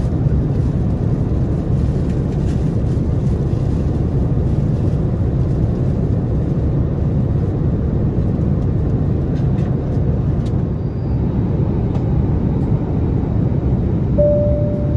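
Steady airliner cabin noise of an Airbus A330-900neo in flight: a low, even rush of airflow and engine noise from its Rolls-Royce Trent 7000 engines. Near the end a brief tone sounds and then steps down in pitch.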